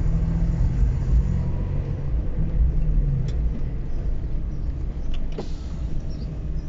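Mitsubishi Lancer with a decat exhaust (catalytic converter removed) running, a steady low exhaust rumble that eases a little in the second half. A couple of faint clicks sound about three and five seconds in.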